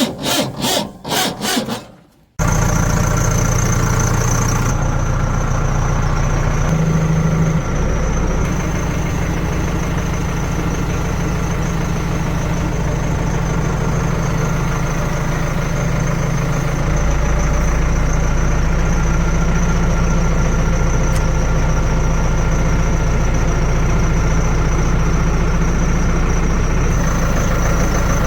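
Fast rhythmic rasping strokes, which cut off abruptly about two seconds in. A heavy machine's engine then runs steadily and loudly, with a low hum and a thin high whine over it.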